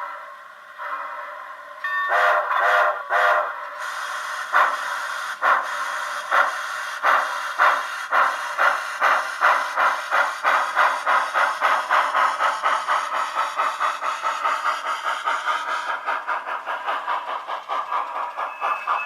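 Digital steam-locomotive sound from an Econami sound decoder playing through the HOn3 model 2-8-0's tiny cell-phone speaker, thin with no bass. After a soft hiss, a few loud blasts come about two seconds in, then the exhaust chuffs start slow and quicken steadily as the model locomotive pulls away.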